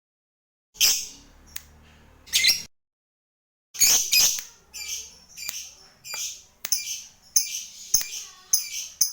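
Lovebird calls: a few harsh, high chirps broken by two short spells of dead silence, then from about four seconds in a steady run of sharp chirps, roughly two a second, with faint clicks between them.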